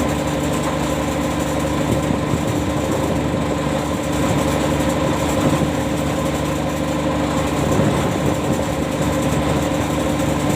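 Ship's anchor windlass machinery running steadily as the anchor is heaved in from the sea: a continuous engine-like drone with a steady hum.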